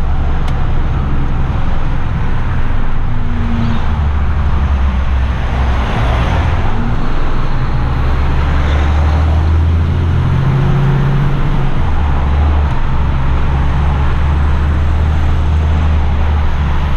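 Heavy rigid truck's diesel engine running while driving, heard as a steady low drone with road noise; the engine note shifts a few times.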